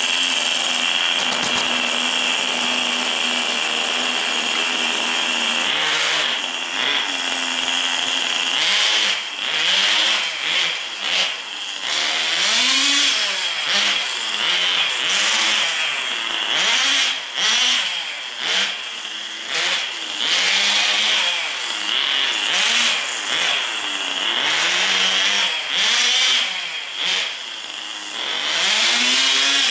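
Tamiya TGS 1/10 nitro RC car's small glow engine, run for a light cool-down. It holds a steady tone for about six seconds, then revs up and down over and over as the car is driven around.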